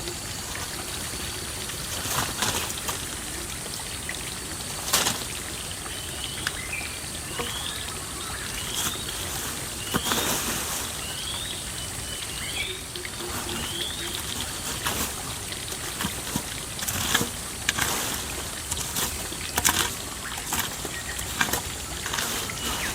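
Steady trickling water, with a run of short rising chirps in the middle and a few sharp knocks scattered through.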